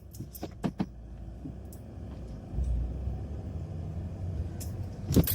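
Car cabin rumble from a car driving slowly, getting louder about two and a half seconds in, with a few light clicks early on and a sharp click near the end.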